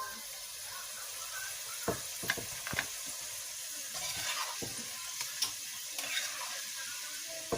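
Food frying in hot oil with a steady sizzle, and a utensil clicking against the pan several times as it is stirred.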